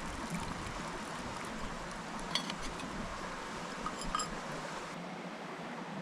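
Light clinks of cookware or tableware, two small clusters of ringing taps, over a steady rushing background.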